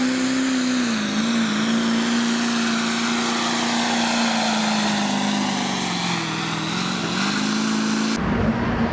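Diesel pulling truck's engine running hard at high, nearly steady revs under load, its pitch dipping briefly twice. The sound changes abruptly shortly before the end.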